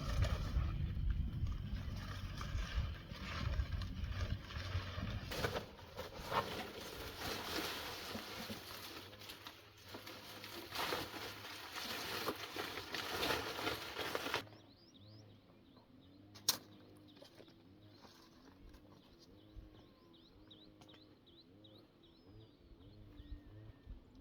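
A dense rushing noise with scattered knocks for about the first half, cutting off suddenly. Then it is quieter, with birds chirping in short repeated calls, a dove cooing low, and one sharp click.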